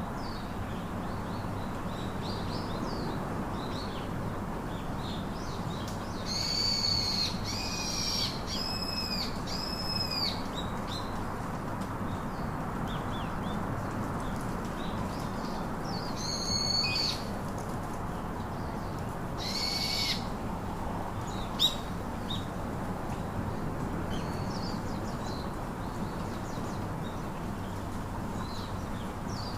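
Wild birds calling over a steady background hiss. About six seconds in there is a run of four loud, harsh, arched calls, then single calls like them about ten and thirteen seconds later, with faint chirps in between.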